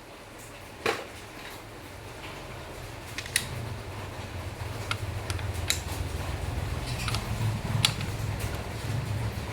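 Metal engine parts and hand tools clinking and clicking, with a sharp knock about a second in and scattered clicks after, over a low steady hum that grows louder.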